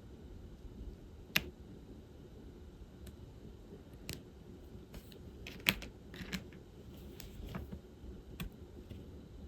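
Irregular small clicks and taps of diamond painting work: plastic tools and resin drills against the canvas and the bead tray. A sharp click comes about a second and a half in, and the loudest one a little past halfway.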